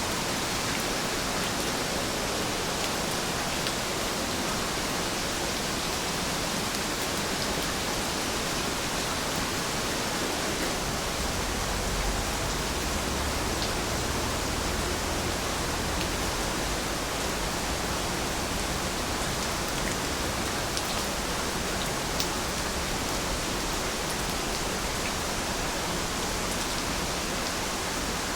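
Steady rain falling, an even hiss with scattered drop ticks; from about eleven seconds in a low rumble joins beneath it.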